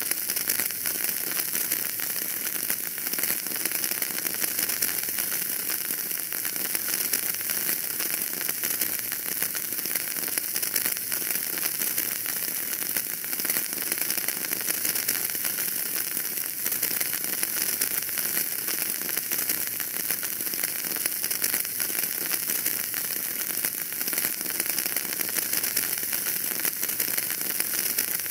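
Wood fire burning in a fireplace, with dense, continuous crackling and popping over a steady hiss.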